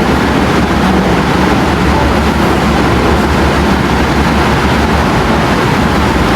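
A steady, loud rumbling noise that does not let up.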